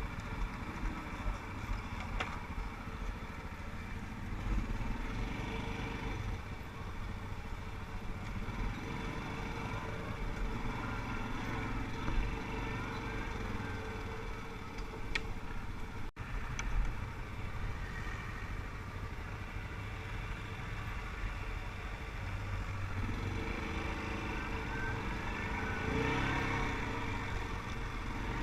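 ATV engine running steadily, with a low rumble and broad noise.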